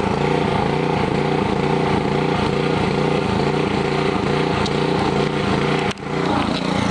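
Honda GC160 160cc single-cylinder engine running steadily on the small amount of fuel left in its tank, with a brief dip in the sound about six seconds in.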